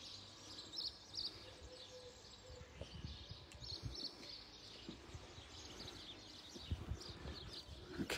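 Faint, scattered bird chirps over quiet outdoor background noise, with some low rumbling.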